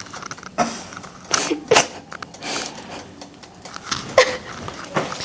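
Women laughing in short, breathy, scattered bursts.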